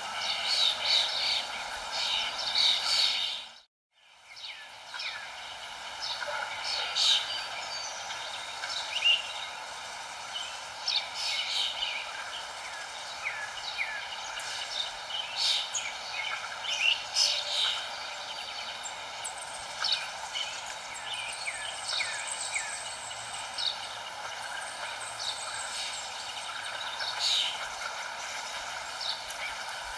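Many small birds chirping and twittering in short, overlapping calls over a steady background hiss. The whole sound briefly drops out to silence about four seconds in, then fades back.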